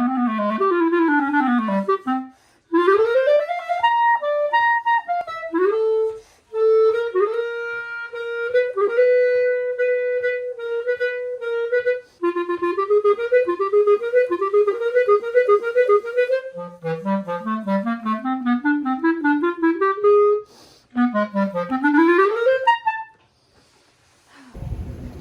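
Solo clarinet playing fast runs and rising and falling arpeggios, with a long held note around the middle and a few short breaks between phrases. A low rushing noise cuts in just before the end.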